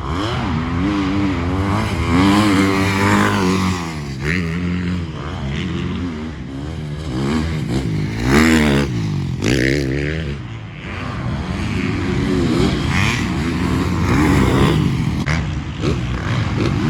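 Several motocross bikes racing, their engines revving up and down and overlapping, the pitch rising and falling over and over.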